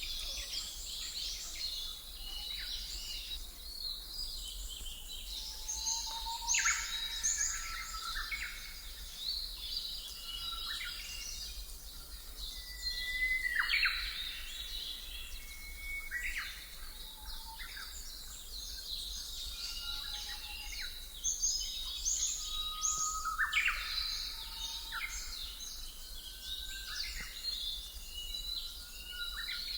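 Many birds chirping and whistling at once, short overlapping calls, some gliding up or down in pitch, with a faint steady hum underneath.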